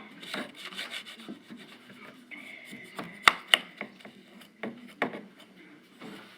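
Putty knife scraping and smoothing kinetic sand in a series of short rubbing strokes, with two sharp taps about a quarter second apart a little past halfway.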